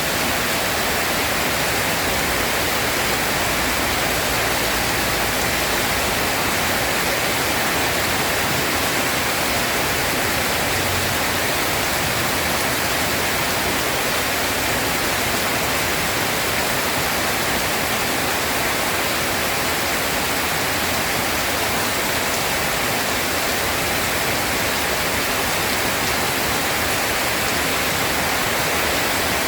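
Steady rain, an even hiss with no breaks and no thunder.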